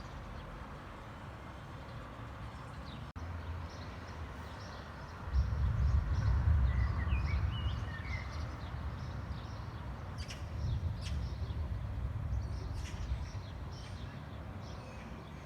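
Distant thunder rolling in about five seconds in, a deep rumble that swells and slowly fades, with a second softer roll a few seconds later. Small birds chirp now and then.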